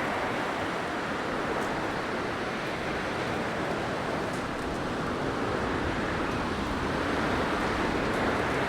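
Blizzard wind rushing steadily, with slow swells and lulls.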